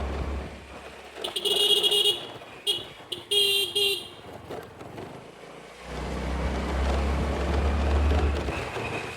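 Vehicle horns honking in road traffic: a honk about a second in, two short toots, another honk about three seconds in, then a steady low rumble from about six seconds on.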